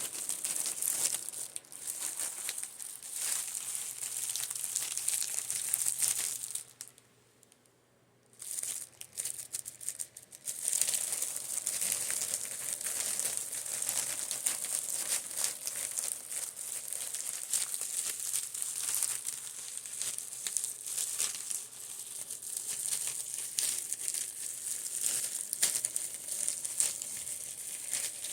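Makeup brushes being tapped, giving a dense crackly scratching made of many quick small taps, which stops for about a second and a half around seven seconds in, then carries on. A faint steady hum from a fan runs underneath.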